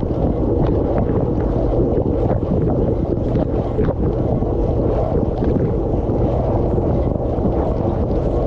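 Dishwasher running, heard from inside the tub: a steady rush of water sprayed from the spray arms, with small ticks of drops striking the dishes and the camera housing.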